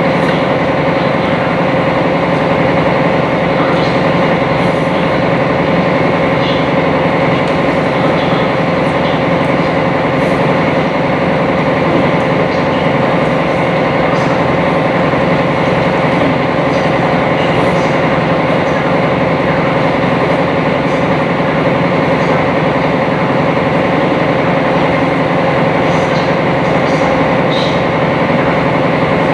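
Sightseeing boat's engine running steadily while underway, an even drone with a steady hum that does not change, heard from on board.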